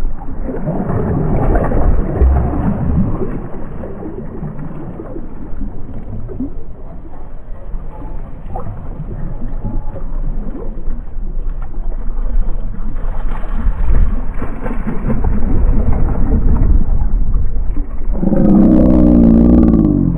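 Wind buffeting the microphone and rushing river water, swelling and fading unevenly. Near the end a wavering pitched sound comes in.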